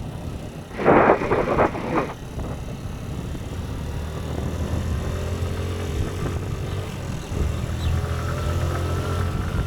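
Motorcycle engine running steadily with a low hum while riding, with a louder rush of noise about a second in.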